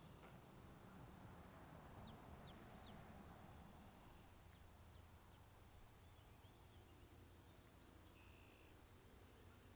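Near silence: faint outdoor ambience with a low background hum and a few faint bird chirps.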